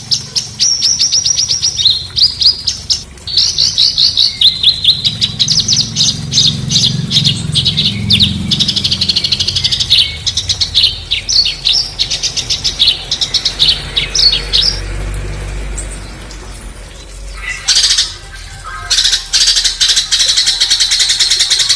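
Songbird song: fast, harsh runs of rapidly repeated high chirps and trills, pausing briefly, then a dense, buzzy chattering burst near the end.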